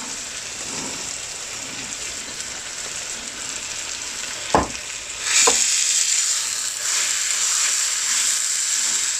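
Chicken curry sizzling in hot ghee in a pan as fresh fenugreek (methi) leaves are added. A knock against the pan comes about four and a half seconds in, and the sizzling grows louder just after it.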